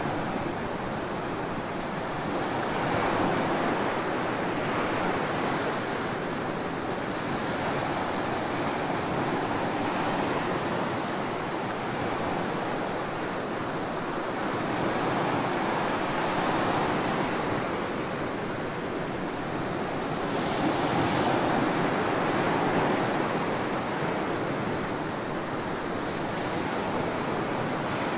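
Ocean surf breaking and washing on a beach, a steady rush that swells and eases every few seconds as waves come in.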